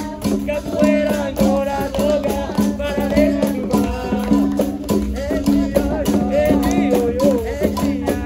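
Capoeira roda music: berimbaus with caxixi rattles keep up a steady low-pitched rhythm, with singing voices over hand percussion.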